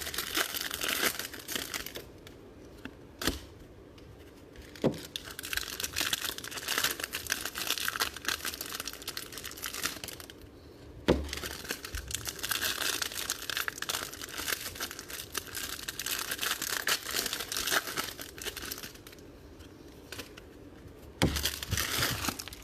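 Plastic wrapping crinkling and tearing as trading cards are unwrapped, in several long stretches separated by short pauses, with a few sharp clicks.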